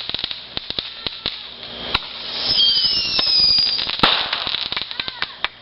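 Consumer fireworks going off: a dense run of sharp crackling pops, with a louder bang about two seconds in and another about four seconds in. Between them a firework whistle glides down in pitch for about a second.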